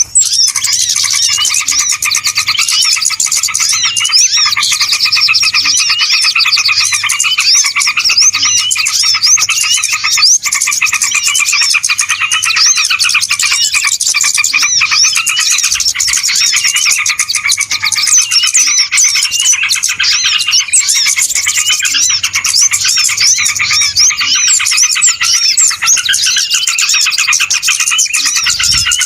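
Dense, noisy chorus of many small birds chirping and twittering without pause: a bird-lure (pikat) recording made to draw in small wild birds.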